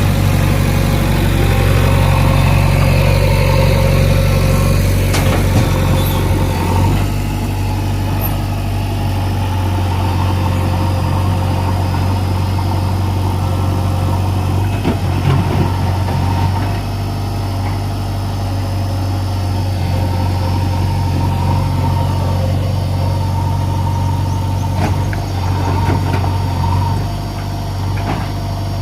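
Diesel engine of a JCB 3DX backhoe loader running while it loads soil into a tractor trolley, its note changing a few times, with occasional knocks and rattles.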